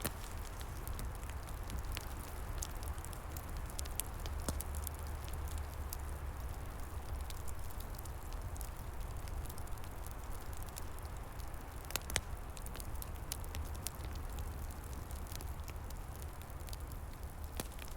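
Wood fire crackling with frequent small pops and a louder crack about twelve seconds in, over a steady low rumble and hiss.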